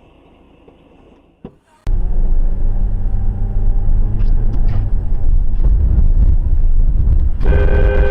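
A vehicle's low, loud road rumble that starts suddenly about two seconds in, with a horn sounding one steady blast near the end.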